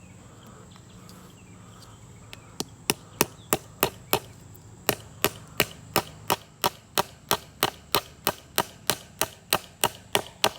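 Hammer blows on wood, about three a second, driving in a nail to fix an electric-fence insulator to a fence post. There is a short break after the first six strikes, then the hammering runs on steadily.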